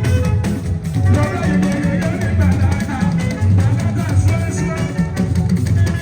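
Fuji band music with no singing: drums and rattling percussion over a pulsing bass beat, with plucked guitar lines.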